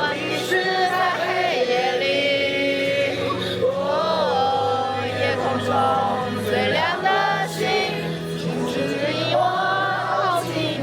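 Music with several voices singing together, over a steady low accompaniment.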